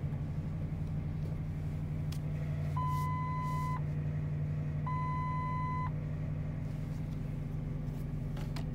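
Ford 5.4L 3V Triton V8 idling just after a cold start: a rough idle that the owner says is misfiring, tied to cam timing codes P0021 and P0022. Two steady one-second beeps sound about 3 and 5 seconds in.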